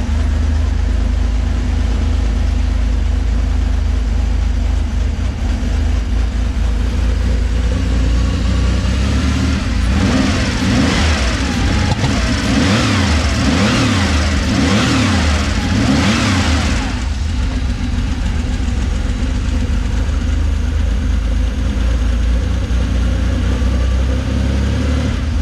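Porsche engine running at idle just after a cold start. It is revved several times in quick succession, pitch rising and falling, for several seconds around the middle, then settles back to a steady idle.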